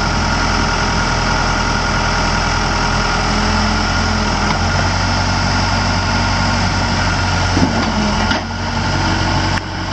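Case 580L backhoe's Case 4-390 four-cylinder diesel engine running steadily at idle, with two short drops in level near the end.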